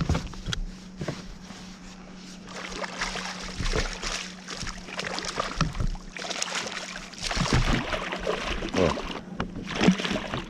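Scattered knocks and rattles on a fishing kayak as a freshly landed kahawai is handled, with water sloshing around the hull.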